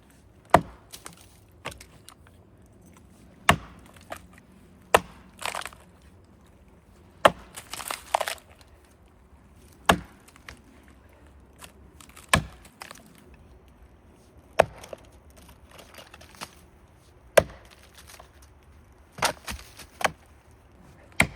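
Axe chopping into a standing hard maple trunk: sharp single blows of a big chopping axe on a short handle, about one every two to three seconds, with two blows close together near the end.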